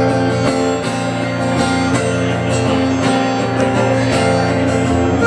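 Instrumental intro of a live song: guitar chords strummed at a steady rhythm.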